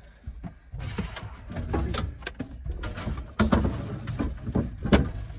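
Irregular knocks and bumps from equipment being handled, with a low, voice-like sound among them.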